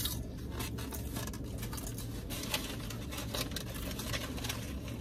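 Close-miked chewing of food, with many small wet clicks and crackles, over a steady low hum.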